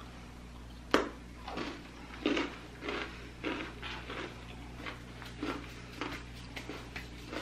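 A crisp bite into a small iced gingerbread cookie about a second in, then crunchy chewing of the crispy cookie at about two chews a second.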